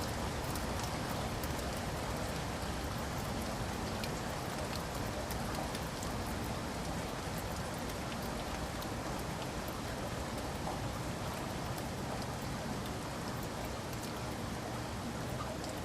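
Steady rain: a dense, even hiss of rainfall with many small drops ticking through it.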